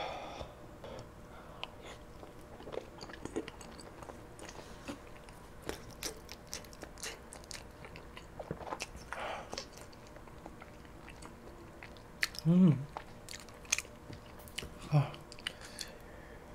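Close-miked chewing of chewy tteokbokki rice cakes, with many small wet mouth clicks. About nine seconds in comes a breathy huff from the hot food, and near the end two short 'mm' sounds.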